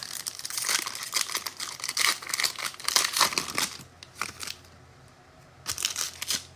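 Trading card pack wrapper being torn open and crinkled by hand, with a dense crackling for about the first three and a half seconds and another short burst of crinkling near the end.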